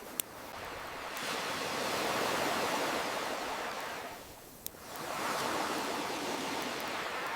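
Ocean surf swelling and ebbing, with the wash dropping away about four and a half seconds in before the next wave builds. A campfire gives two sharp pops, one just after the start and one about four and a half seconds in.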